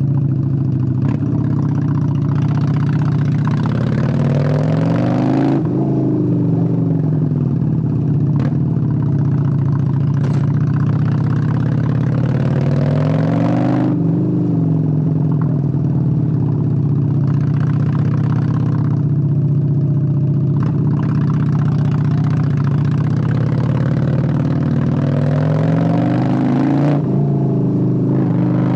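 1997 Honda Steed 600 V-twin engine under way, its revs climbing and easing off three times as the bike accelerates and rolls off, with a few sharp clicks.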